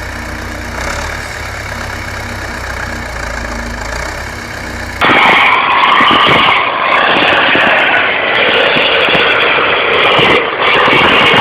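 A vehicle engine runs steadily at a low pitch. About five seconds in, the sound cuts abruptly to a louder, rougher and noisier engine sound.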